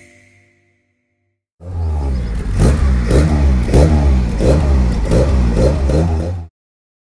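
Lotus Elan S2's twin-cam four-cylinder engine being revved in repeated blips, about seven rises and falls in pitch. It starts abruptly after a short silence and cuts off suddenly.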